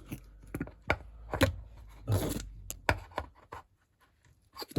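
Putty being pushed and worked into its plastic tub: a scatter of sharp clicks and scraping handling noises, with a short noisy burst about two seconds in. It quietens for about a second near the end.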